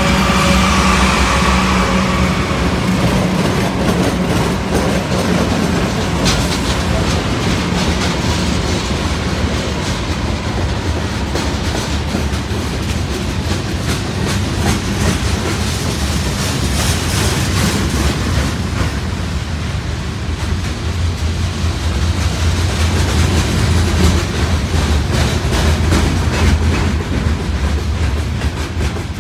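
BNSF manifest freight train passing at speed. The locomotives' tones die away in the first couple of seconds, then the freight cars roll by in a steady rumble, with wheels clicking over the rail joints.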